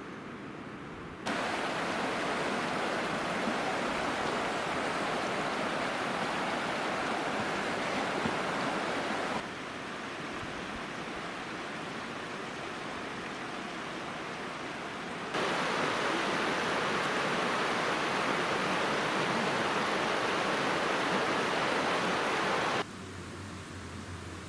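Waterfall's falling water rushing steadily. The level jumps abruptly louder about a second in, drops about 9 s in, rises again about 15 s in and drops near the end.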